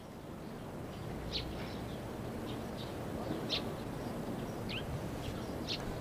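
Outdoor ambience: a steady background hiss with several short, high bird chirps scattered through it.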